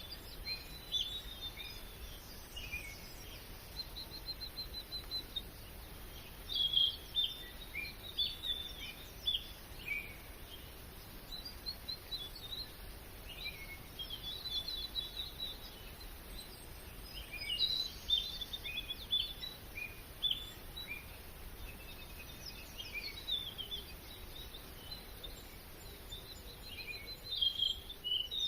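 Forest birds singing and calling throughout: a mix of short chirps, whistled notes and quick trills, over a steady faint background hiss.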